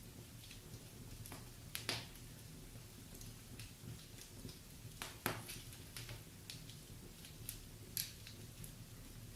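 Wood fire in a fireplace crackling: scattered small ticks, with three louder pops about two, five and eight seconds in, over a faint low hum.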